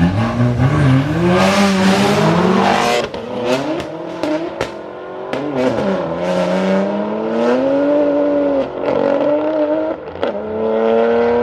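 Two BMW cars racing side by side under full-throttle acceleration, their engines climbing in pitch and dropping sharply at each upshift, about four times. Sharp cracks come between the shifts.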